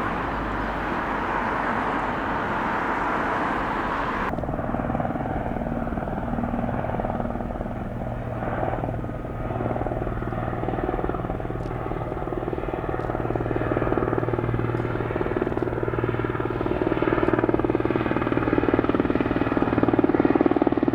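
RAF Puma helicopter's rotors and turbines running, with a steady hum that grows louder over the last few seconds. About four seconds in, a broader rushing noise cuts off suddenly.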